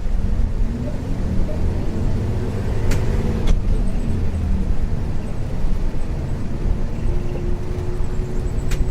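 Isuzu U-LV224N route bus's 6QB2 diesel engine running under way, heard from inside the cabin as a steady low rumble whose pitch shifts a little. A few sharp rattling clicks come from the body, two about three seconds in and one near the end.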